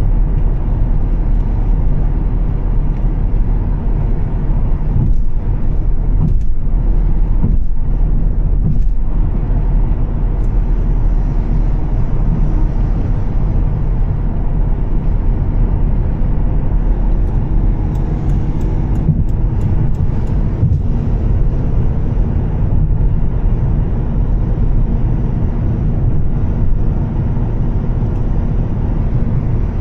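Volvo S60 T6, with its turbocharged inline-six and Heico aftermarket exhaust, driving on a wet road: a steady low engine and exhaust drone mixed with tyre noise.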